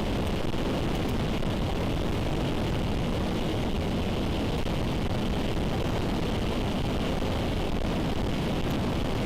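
Motorcycle cruising at a steady speed, heard through a helmet-mounted camera: engine and wind noise blended into an even rush with no change in pace.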